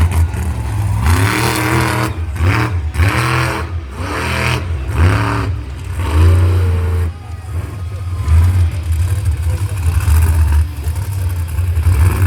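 Engine revving in a run of quick throttle blips, each rising and falling in pitch, over a steady heavy low rumble.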